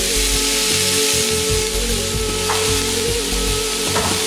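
Broad beans and tomato pieces sizzling in oil in a wok, a steady frying hiss.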